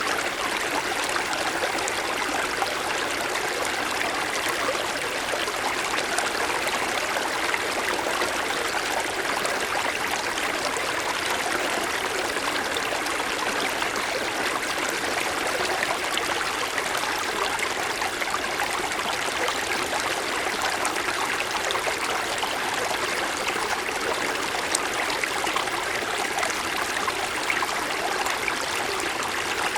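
Mountain stream flowing over snow-covered stones: a steady rushing and burbling of water, unchanging in level.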